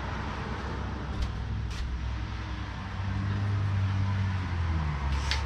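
A motor vehicle's engine running, a low hum that grows louder about three seconds in, with a few light clicks over it.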